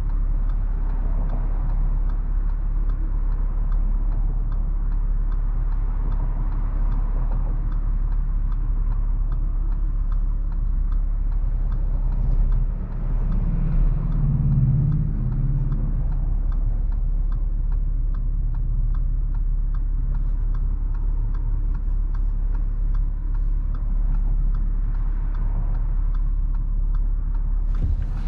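2017 Audi SQ5's V6 idling through AWE non-resonated downpipes and Touring catback exhaust, a steady low drone heard from inside the cabin that swells briefly about halfway through. A turn-signal relay ticks about twice a second over it.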